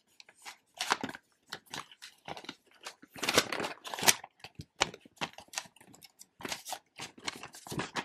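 Paper packaging rustling and crinkling as it is handled and unwrapped, a quick irregular run of crackles that is loudest about three to four seconds in.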